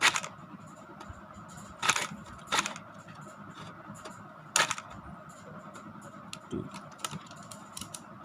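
A toy's box packaging being worked open by hand: a series of sharp crackles and clicks, four louder ones in the first five seconds and smaller ticks in between.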